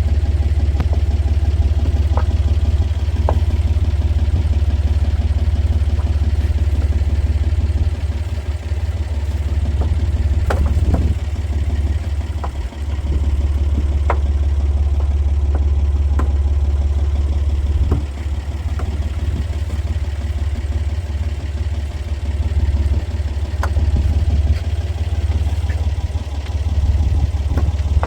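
Fishing boat's engine running steadily at low revs, with a few scattered knocks and clatter over the drone.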